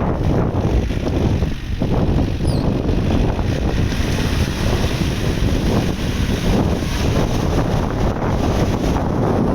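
Tractor running, a steady dense low rumble, mixed with wind buffeting the microphone.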